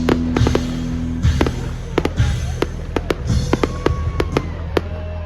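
Aerial fireworks going off in a rapid string of bangs and crackles, with faint whistles in the second half, over loud background music.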